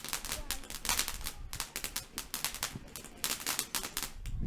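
Firework crackling: a dense, irregular run of sharp cracks and pops that stops suddenly near the end.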